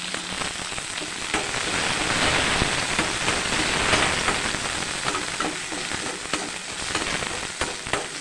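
Shallots and tomato sizzling in hot oil in a nonstick kadai, stirred with a perforated steel spatula. The spatula scrapes the pan and gives sharp taps now and then, more often in the second half.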